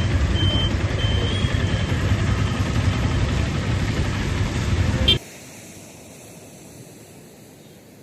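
Road vehicle noise with a heavy low rumble and a run of short, high electronic beeps like a reversing alarm in the first second and a half. The sound cuts off abruptly about five seconds in, giving way to a much quieter steady hiss.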